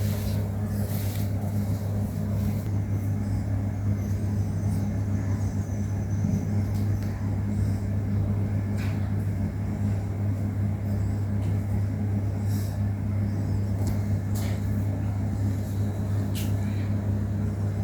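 A steady low mechanical hum that does not change, with a few faint clicks.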